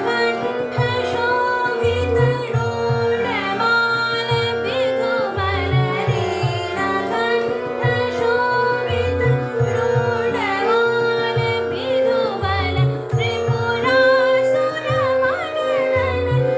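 Female voice singing a dhrupad composition in raga Purvi, set to sultaal, with slow gliding ornaments over a steady drone and repeated low drum strokes.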